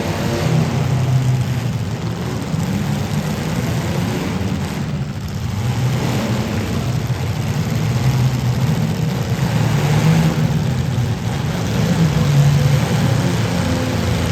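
Demolition derby cars' engines running and revving together as a loud, steady engine din that swells and eases.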